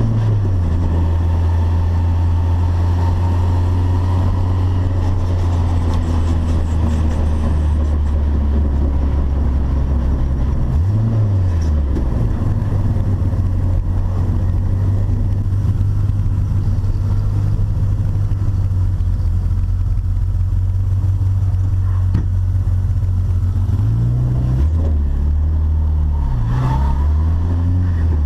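Turbocharged Volkswagen Gol engine running at steady revs, its pitch dipping and climbing again about eleven seconds in and swooping up and down several times near the end.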